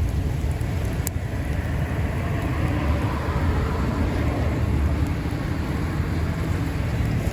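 Steady low rumble of sea wind buffeting the microphone, mixed with the wash of the surf.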